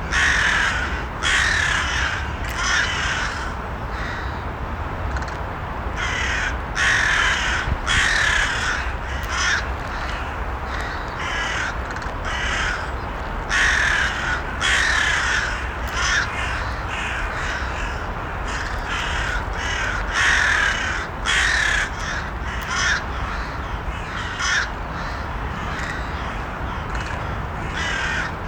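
Crows cawing over and over, harsh calls coming in irregular clusters, over a steady low background rumble.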